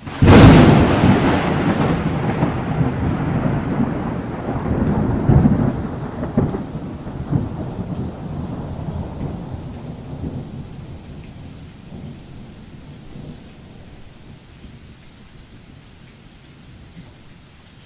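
A loud thunderclap that breaks suddenly and rolls on in rumbling swells, fading away over about ten seconds, with steady rain underneath.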